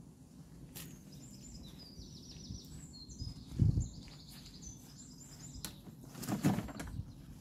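Small birds singing, a string of quick high chirps and trills, with two low thuds about three and a half and six and a half seconds in.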